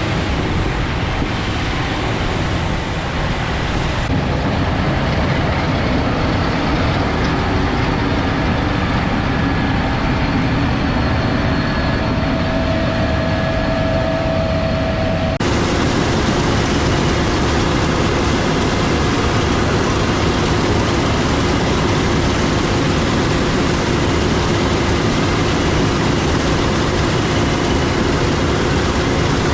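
Heavy harvest machinery running steadily: the diesel engines and drives of large farm equipment. The sound changes abruptly about four seconds in and again about fifteen seconds in.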